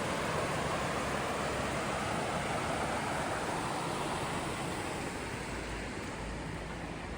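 Steady rushing hiss of rain falling, easing slightly toward the end.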